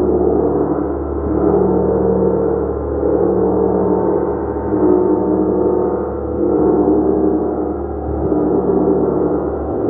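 Gong played continuously: a dense, sustained wash of many overlapping ringing tones that swells and ebbs in waves every second or two.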